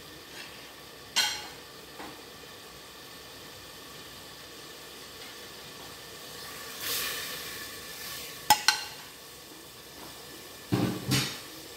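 Onion, tomato and spice masala sizzling in oil with a little water in a stainless steel pressure cooker pot on a gas burner, a steady hiss that swells louder about seven seconds in. A few sharp knocks break in: one about a second in, two in quick succession past the middle, and more near the end.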